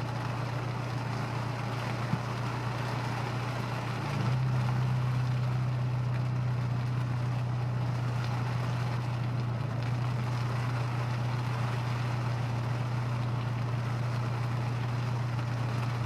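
Honda S2000's four-cylinder engine droning steadily inside the car while driving, over a steady hiss of road noise. About four seconds in, the drone steps up louder and a little higher in pitch, then holds.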